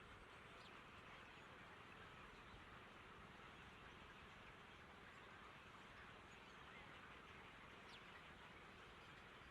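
Faint, steady outdoor background hiss with a couple of brief, faint bird chirps, one about half a second in and one near the end.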